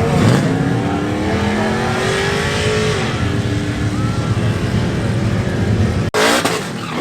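Truck engine revving hard in a burnout, its pitch climbing and falling several times. It breaks off abruptly about six seconds in and another rev climbs.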